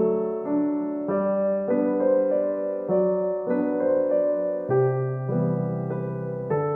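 Background music: a gentle piano melody over held chords, its notes changing about every half second.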